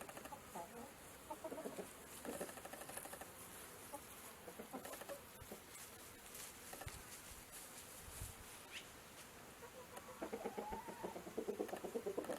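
Faint clucking of chickens: short, scattered calls that grow busier and louder near the end.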